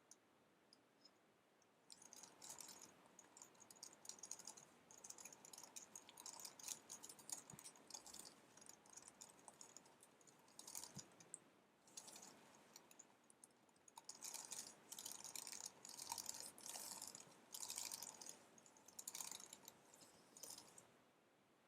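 Fast typing on an Apple wireless keyboard: quick runs of soft, light key clicks in bursts. The typing starts about two seconds in and stops just before the end.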